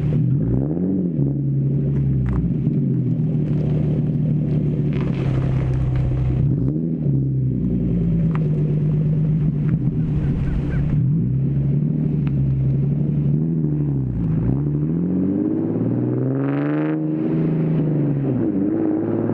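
Infiniti G37S 3.7-litre V6 running through a loud, muffler-deleted exhaust with test pipes, with a steady low note. Its pitch swells and drops again every few seconds. The biggest rise comes about two-thirds of the way through.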